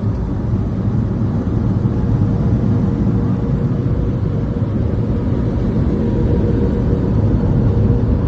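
Steady low rumble of automatic car wash machinery, with a faint steady hum over it.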